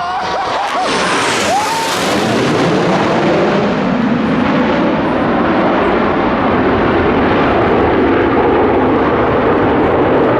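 Roar of Blue Angels F/A-18 Hornet fighter jets flying past, with the hiss sharpest about two seconds in, then a sustained heavy rumble that slowly loses its top end as they pull away.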